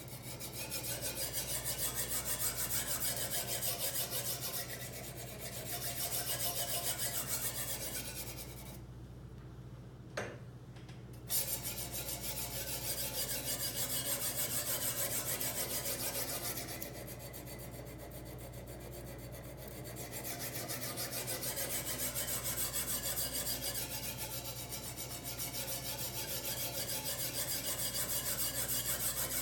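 Diamond stone on a guided-rod knife sharpener rasping in quick back-and-forth strokes along a large kitchen knife's steel edge, on the first, coarse stone that raises the burr. The stroking stops briefly about a third of the way in, with two short clicks, then carries on.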